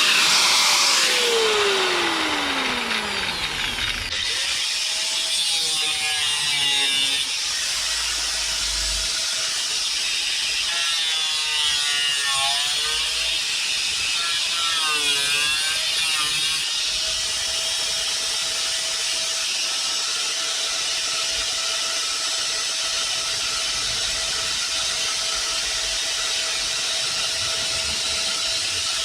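Power tool cutting out rusted sheet steel from a car's body, with a falling tone over the first few seconds, its pitch wavering as it bites, then a steady whine over the last part.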